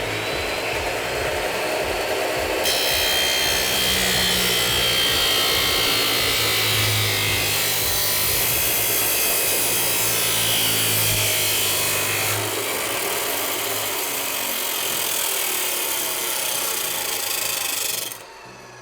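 DeWalt D28720 abrasive chop saw with a 355 mm cut-off wheel, its brushed motor running as the wheel grinds through steel. The wheel bites into the metal about three seconds in with a harsh grinding hiss, which eases somewhat in the second half. The saw is switched off near the end.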